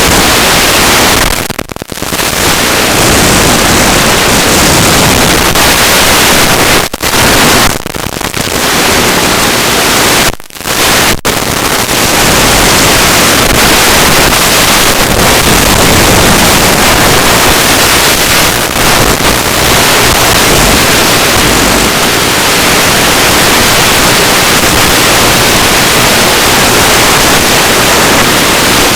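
Loud, even hiss of static from an analog FPV video link, with several brief dropouts in the first twelve seconds.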